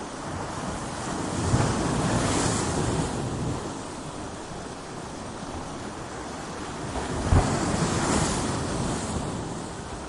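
Ocean waves crashing against coastal rocks: a steady wash of surf with two larger waves breaking, one about a second and a half in and another near the end, each starting with a low thud and then a spreading hiss of spray.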